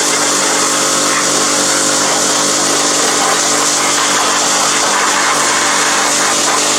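A machine running steadily with a loud hiss over a steady motor hum, from cleaning grease off a transmission.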